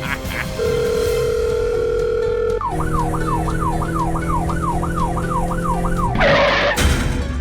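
A siren sound effect: first a steady electronic tone for about two seconds, then a fast up-and-down wail, about three sweeps a second, for a few seconds. Near the end it gives way to a short hiss and a thump.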